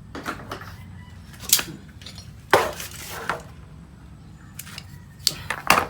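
Metal tools and parts clinking and knocking against each other, about five sharp strikes with the last two close together near the end, over a low steady hum.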